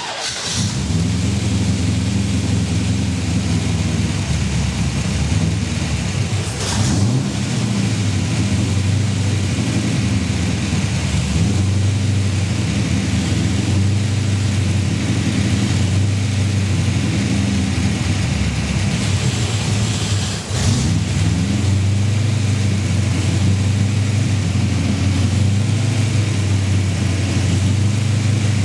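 Come Racing 355 stroker V8 running hard and being given throttle, through a makeshift exhaust of a couple of loose mufflers, with two brief dips in the note about 7 and 20 seconds in.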